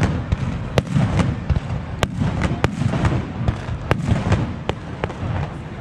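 Aerial fireworks display: a continuous low rumble of booms, with sharp cracks and pops scattered irregularly through it.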